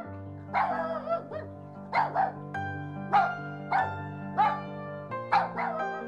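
Puppies yipping: a run of about a dozen short, high calls that drop in pitch at the end, over background music with held chords.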